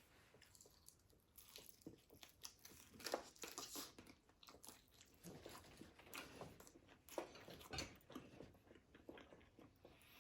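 Close-up chewing and crunching of crispy fried food, an irregular run of crisp crunches and bites.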